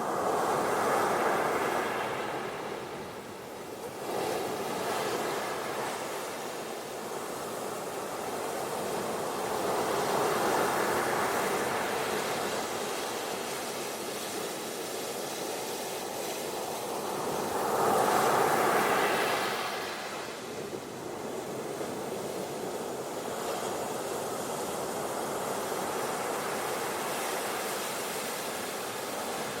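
Ocean surf on a beach: waves washing in and out in slow swells, the loudest about a second in and again about two thirds of the way through.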